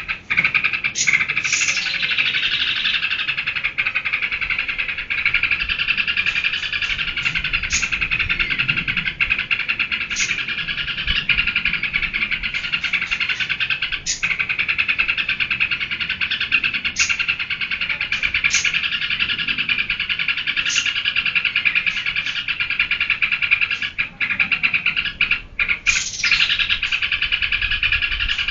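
Yellow-vented bulbul (trucukan) singing a continuous, rapid chattering song, broken by sharp high notes every second or two, with a few short breaks near the end.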